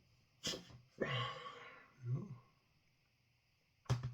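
A man's breathing and throat noises: a quick breath in, then a long noisy sigh out about a second in, a short grunt, and two sharp bursts of breath near the end.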